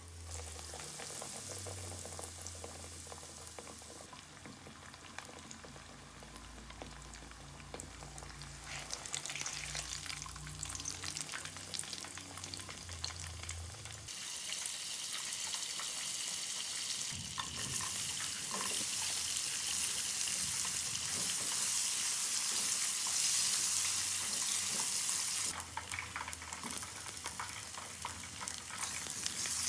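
Breadcrumb-coated chicken katsu deep-frying in hot oil in a wok: a steady crackling sizzle that grows louder about halfway through. A few seconds before the end it drops to a quieter sizzle of sliced onion and garlic sautéing in a small pan.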